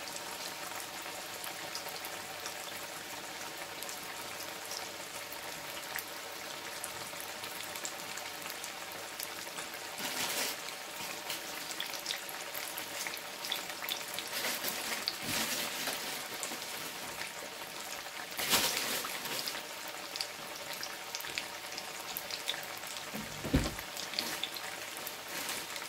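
Slices of boiled breadfruit frying in hot oil in a stainless steel pot: a steady sizzle with scattered crackles and pops. The sizzling swells louder about ten and eighteen seconds in, and there is a short low thud near the end.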